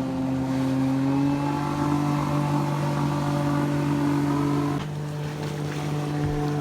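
Motorboat engine running at a steady speed, its tone shifting slightly; about five seconds in the sound abruptly drops a little in level and changes character.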